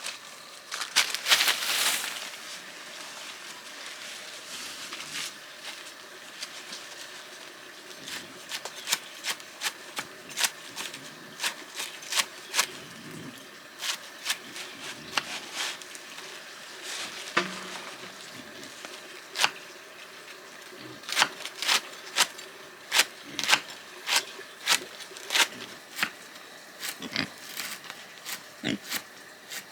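Pigs grunting now and then, with many sharp, irregular clicks and knocks.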